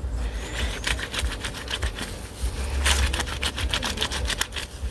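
Shirt collar fabric being scrubbed by hand, rubbed back and forth against itself in quick, rhythmic strokes to work the dirt out.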